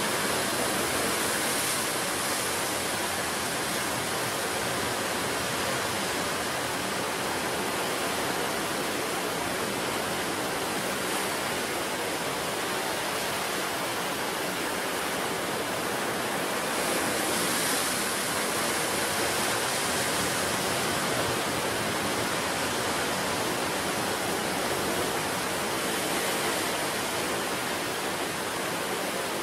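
Ocean surf: a steady, unbroken rush of breaking waves, swelling a little brighter a few times.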